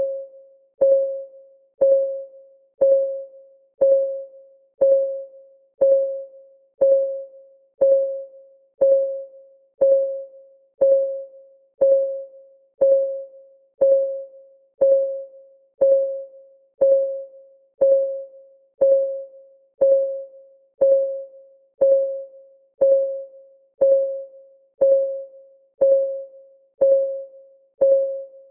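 Countdown timer's clock ticking sound: one even tick each second, each a short click with a brief ringing note, steady and unchanging.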